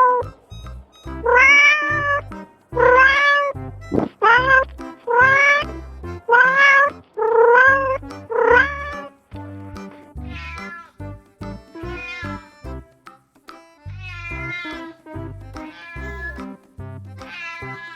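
Domestic cat meowing over and over, about one meow a second, each call rising then falling in pitch; the meows are loud for the first half and fainter in the second half. Background music with a steady beat plays underneath.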